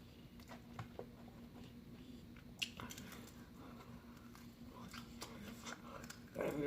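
Chewing and biting chicken wings close to the microphone: quiet mouth sounds with a few small crunches, the sharpest about two and a half seconds in.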